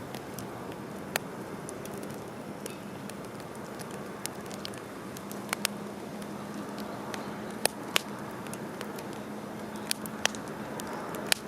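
Wood campfire crackling: a steady hiss with sharp, irregular pops and snaps.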